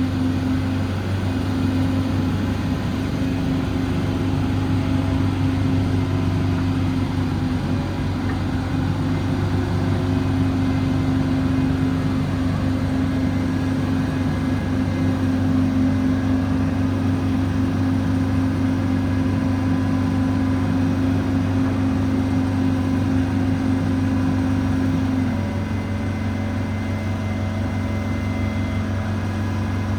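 The Peterbilt 337's Paccar PX9 8.9-litre diesel engine running steadily. Its pitch steps down slightly near the end, and it gets a little quieter at the same moment.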